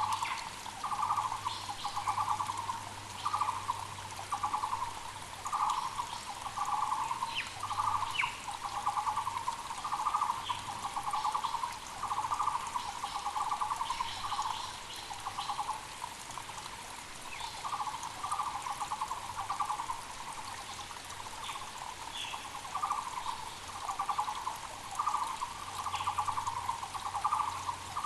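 Taiwan barbet (Müller's barbet) calling, a long series of repeated notes about two a second, breaking off briefly a few times. Beneath it a mountain creek runs steadily, and small birds chirp faintly and high.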